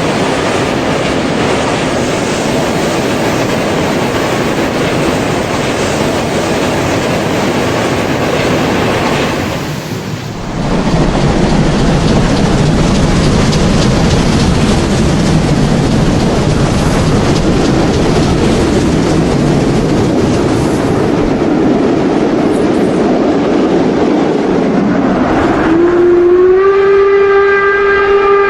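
Model steam locomotives (Märklin BR 50 and BR 52) running with their locomotive sound and the rolling clatter of a long train of coke wagons, briefly quieter about a third of the way through and then louder. Near the end a steam whistle sounds, gliding up into a steady held tone.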